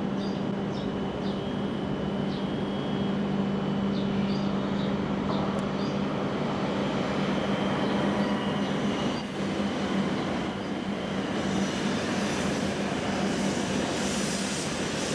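An E7/W7-series Hokuriku Shinkansen train running through the station, with a steady hum and rumble and a few faint short squeaks in the first half.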